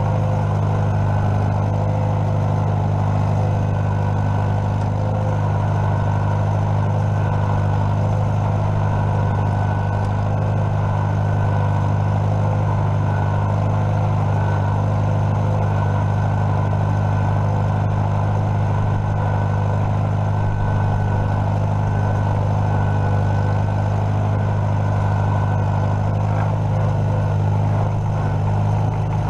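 Farmall M tractor's four-cylinder engine running steadily at an even speed.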